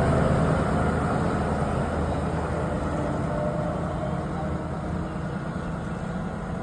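Train running with a steady low rumble that slowly fades.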